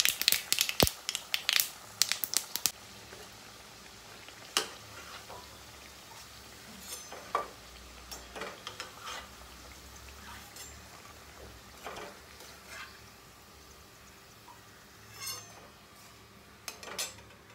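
Anarsa frying in hot oil in a steel kadhai: dense sizzling and crackling for the first two or three seconds after it goes in, then settling to a faint sizzle. A metal slotted spoon scrapes and clinks against the pan now and then.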